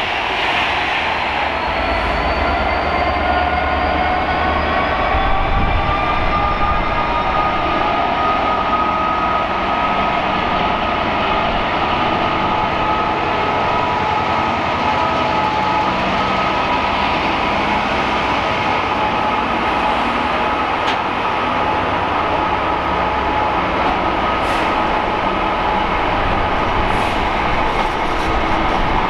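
A train passing through the station: a loud steady rumble with several high whining tones that rise in pitch over the first several seconds and then hold steady.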